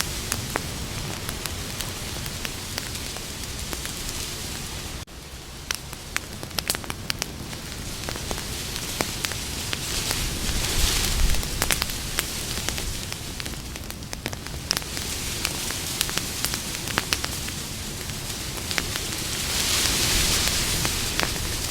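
Campfire burning with a steady hiss, sharp crackles and pops scattered through it. The hiss swells twice, and the sound drops out briefly about five seconds in.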